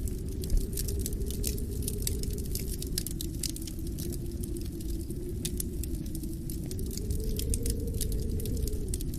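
Wood fire crackling with frequent sharp pops and snaps, over a steady low rush of wind that swells in a gust near the end.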